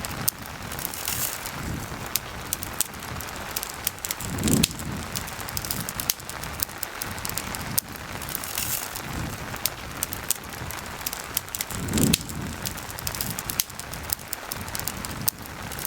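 Campfire crackling in sharp, irregular pops over the steady hiss of falling rain, with two low rumbling swells, one about four seconds in and one near twelve seconds.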